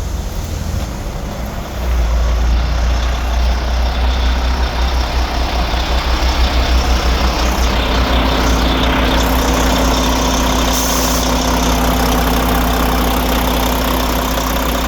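Mack MP8 inline-six diesel truck engine running, which the seller calls good running at 660,000 miles. It gets louder about two seconds in, throbs unevenly for a few seconds, then settles into a steady run with a higher hum added from about eight seconds in.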